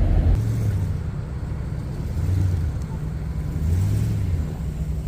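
Engine and road noise heard from inside a moving vehicle, a steady low rumble that swells and eases a few times.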